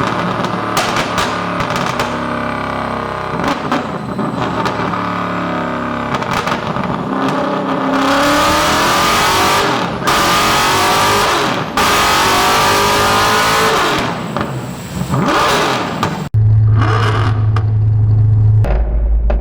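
Widebody Camaro's engine revving hard on a chassis dyno, its pitch sweeping up through loaded pulls with short breaks between. About three-quarters of the way in the sound changes abruptly to a steady low drone.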